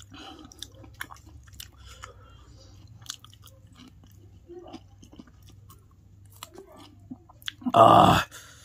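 Close-miked chewing and biting of fried noodles, with many small wet clicks and crunches. Near the end comes one short, loud breathy rush of air.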